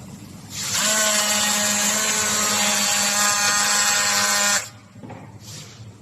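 A small electric motor whirring loudly at a steady pitch for about four seconds, then cutting off suddenly.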